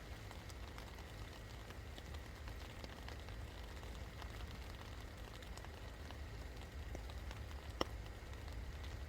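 Steady rain, with many small drop hits ticking on a surface and one louder drop hit near the end, over a low rumble.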